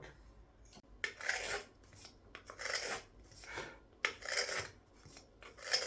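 A carving knife shaving thin finishing cuts from the inside of a wooden scoop's bowl: about five short scraping strokes, roughly a second apart.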